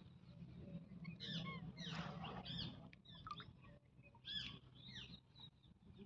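Faint bird calls: a series of short, sharp calls, bunched in the first half and again near the end, over a low steady hum, with a few light clicks.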